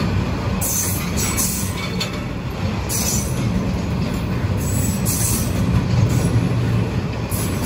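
Container freight train rolling past close by: a loud, steady rumble of flat wagons' wheels on the track, with brief high-pitched sounds coming and going every second or two.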